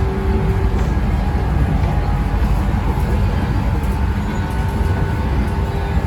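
Running noise of a JR West 115 series electric train heard on board: a steady low rumble from the wheels and bogies, with a faint steady whine over it.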